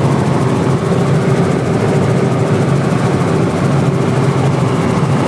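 Helicopter in flight, heard from on board: a steady, loud drone of engine and rotor with a low hum that does not change.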